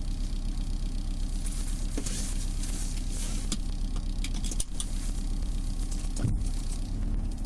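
Car-cabin rumble of a Subaru Legacy BH5 wagon on the move, with a handful of sharp crackling ticks ("paki-paki") scattered through it from the rear hatch and cargo area, an unexplained rattle whose cause the owner has not yet found.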